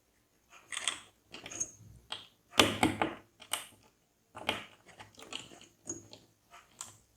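Handling of computer parts and their packaging: irregular clicks and crinkly rustles in short bursts, the loudest a little under three seconds in.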